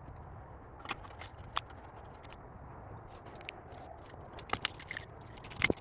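Scattered small clicks and scrapes of hand tools and metal parts being handled while the last spark plug on the V6's bank is worked on. A few sharper clicks come near the end, the loudest a single knock just before it ends.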